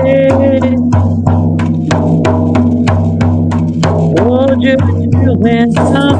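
A voice singing long held notes over a steady, fast drum beat. The notes are held at the start and again near the end.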